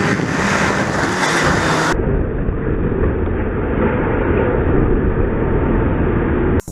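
Motorcycle riding with heavy wind rush on the microphone. About two seconds in the sound abruptly turns dull and deep, a low rumble typical of the footage being replayed slowed down.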